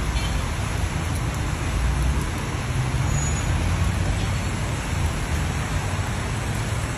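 Steady wet-street ambience: an even hiss of rain over a low traffic rumble.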